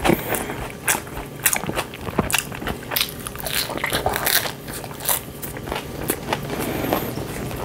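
A person chewing a mouthful of pizza, with a quick, irregular run of wet mouth clicks, smacks and crackles.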